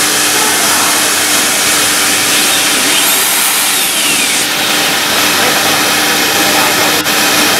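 CNC router machinery running, a loud steady rushing noise with a constant low hum. A faint high whine rises and falls near the middle.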